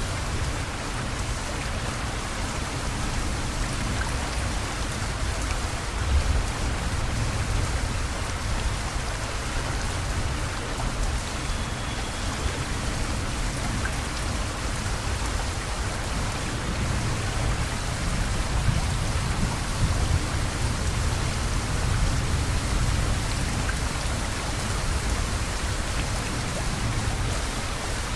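Heavy rain pouring steadily, a dense even hiss of drops hitting surfaces, over a strong low rumble.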